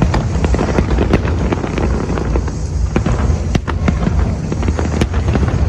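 Fireworks going off in quick succession: many sharp cracks and bangs over a continuous low rumble.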